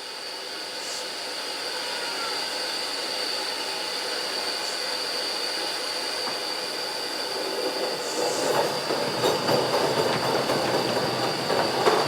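Steam locomotive's blower hissing steadily with a high whistle-like tone, turned up to raise falling boiler pressure. About two-thirds of the way in, louder rumbling and clanking start as the engine gets moving along the track.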